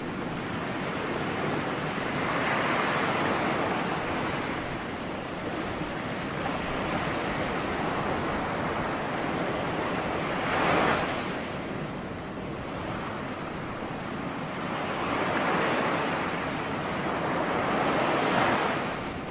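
Ocean waves breaking on a shore: a steady wash of surf that swells with each wave, the sharpest crash coming about halfway through and another big swell near the end.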